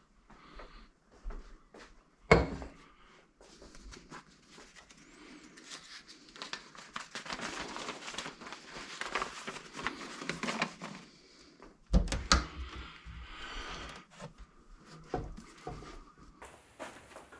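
Household handling noises in a small room: a sharp knock about two seconds in, several seconds of scratchy, rustling noise in the middle, then another loud knock and a few lighter ones.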